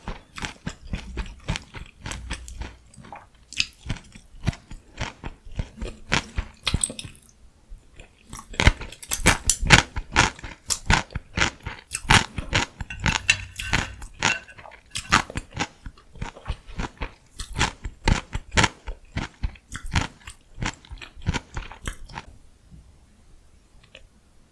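Close-miked eating of cabbage rice wraps with pickled radish and cucumber: chewing with many quick, crisp crunches, which stop about two seconds before the end.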